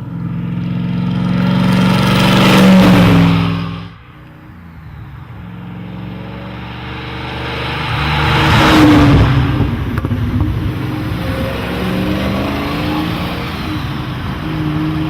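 1969 Maserati Ghibli SS's 4.9-litre V8 running as the car drives by, growing louder to a peak about three seconds in and dropping away suddenly near four seconds. It builds again to a second pass around nine seconds, then keeps running steadily.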